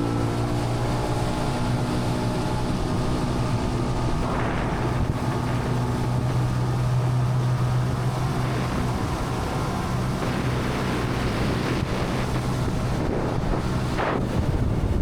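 Boat engine running at a steady cruising speed under way, with wind buffeting the microphone.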